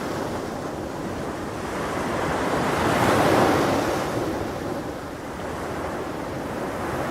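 Ocean waves breaking on a shore: a steady wash of surf that swells to one louder surge about halfway through and then ebbs back.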